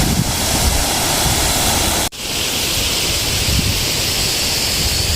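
Small waterfall on a mountain stream, a steady rush of falling water. About two seconds in the sound breaks off briefly and comes back brighter and hissier.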